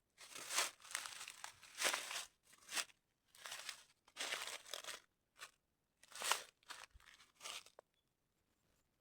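Dry crinkling and crunching handling noise in a string of irregular short bursts, stopping shortly before the end.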